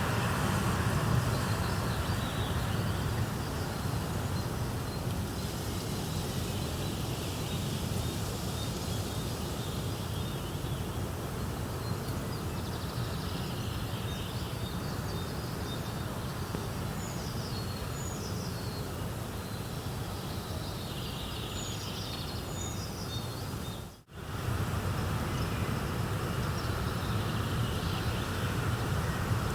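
A steady rushing nature ambience, heaviest in the low end, with scattered short bird chirps high above it through the middle stretch. The sound cuts out abruptly for an instant about three-quarters of the way through, then resumes as before.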